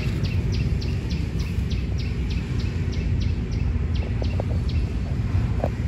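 A small bird chirping over and over, short high chirps at an even pace of about three a second, over a steady low rumble.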